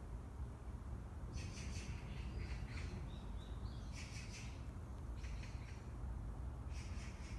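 Small bird chirping in short bursts of rapid high notes, four bursts spaced about a second apart, with a brief thin whistle between the second and third. Over a steady low rumble.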